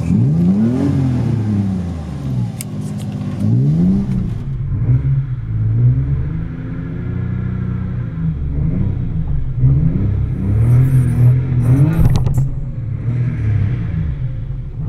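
BMW E30's engine revving hard while drifting, its pitch climbing and dropping again every few seconds as the throttle is worked through the slides. A single sharp knock about twelve seconds in.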